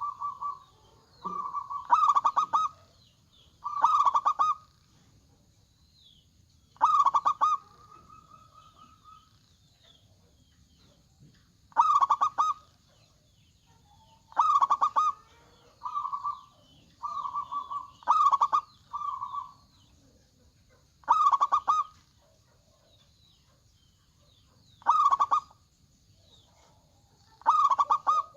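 Zebra doves (perkutut) cooing: about a dozen short, rapidly pulsed coos spaced a second or few apart, some loud and some softer, over a faint steady high hiss.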